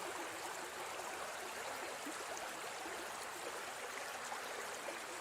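Steady, even rushing of flowing water, with no change in level.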